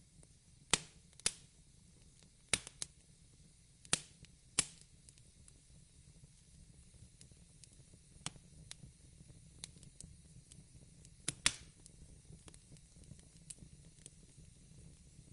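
Wood fire crackling: irregular sharp pops and snaps, several in the first five seconds and a close pair about eleven seconds in, over a low steady rumble.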